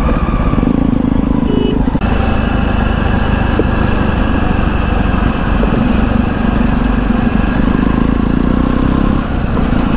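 Jawa motorcycle engine running steadily under way, with road and wind noise.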